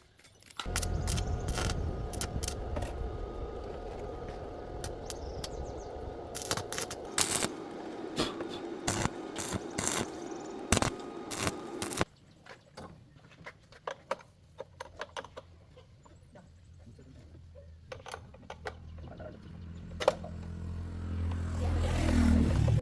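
A machine runs with a steady low hum under many metallic clicks and rattles, then cuts off suddenly about halfway through. Scattered metal clicks follow, and a low hum builds and grows loud near the end.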